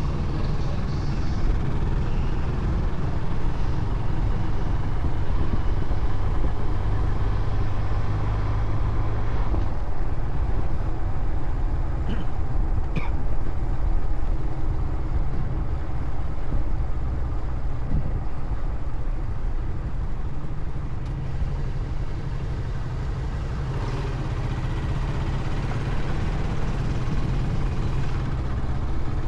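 Motorcycle running while being ridden through city streets, heard as a steady low rumble.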